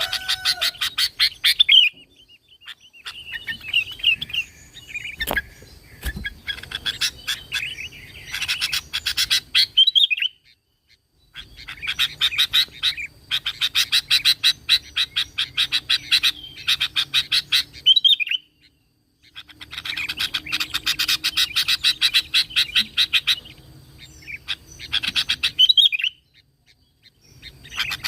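Sooty-headed bulbul (kutilang) singing: long runs of rapid, chattering high notes, each lasting several seconds, broken by brief pauses.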